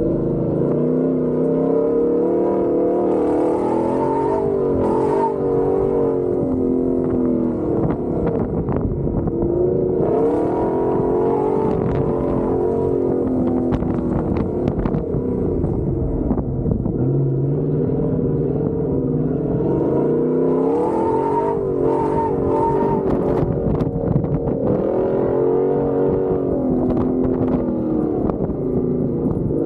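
Off-road vehicle engine revving up under hard acceleration and dropping back, about four or five times, with scattered clicks and knocks from the running gear or debris.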